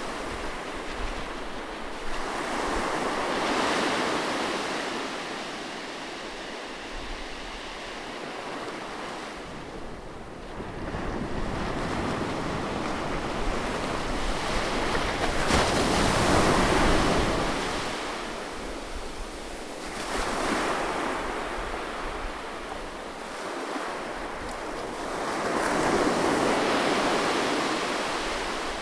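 Gentle sea waves breaking on a beach and washing up the shore. The surf swells and eases in about five surges, loudest around the middle.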